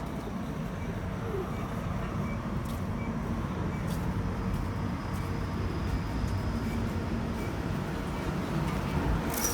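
Busy city street: traffic going by, heard as a steady low rumble, with wind buffeting the microphone.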